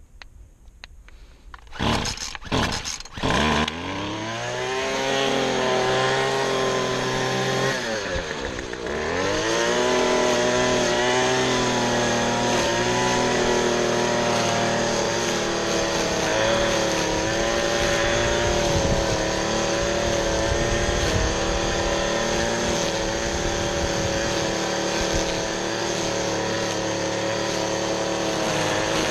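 Small gasoline engine on handheld or push lawn equipment starting about two seconds in with a few sharp bursts. It rises in pitch, dips briefly about eight seconds in, then runs steadily.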